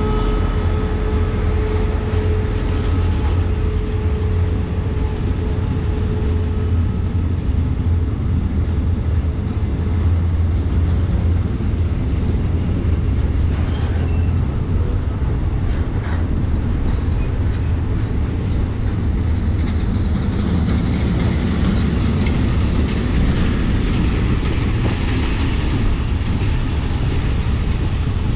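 A diesel freight train running past, a heavy, steady low engine sound with the wagons moving on the rails, growing hissier in the second half.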